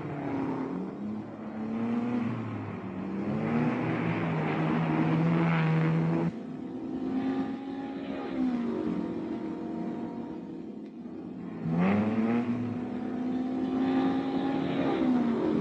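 Racing GT car engines at speed on a circuit. The engine notes climb through the revs, drop back at gear changes and sweep past. The sound changes abruptly twice, about six and twelve seconds in.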